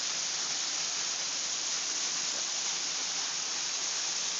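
Waterfall in a canyon: falling water making a steady, even hiss.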